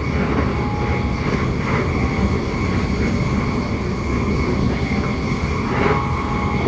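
Running noise inside a moving passenger train carriage: a steady rumble of the wheels on the track, with a steady high whine over it.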